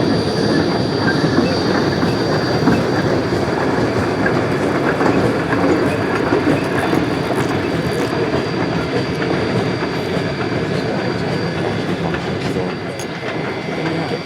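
Steam logging train with its cars rolling past, wheels clattering and grinding on the rails in a steady dense rumble that eases slightly near the end.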